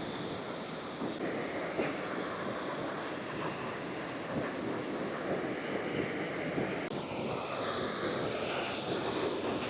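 Jägala Waterfall, water pouring steadily over a wide ledge: a constant rushing of falling water.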